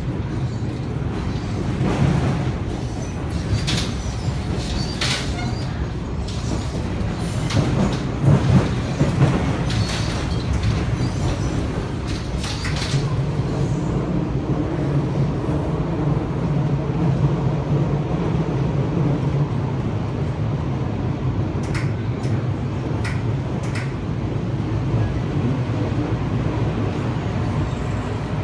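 Metro Cammell electric multiple unit running, heard from the open gangway: a continuous low rumble with sharp wheel knocks over switches and rail joints, clustered through the first half and a few more near the end. A steady low hum sets in about halfway through.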